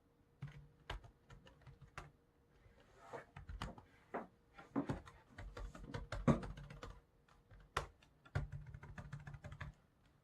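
Typing on a computer keyboard: quick runs of key clicks in uneven bursts with short pauses, starting about half a second in and stopping near the end.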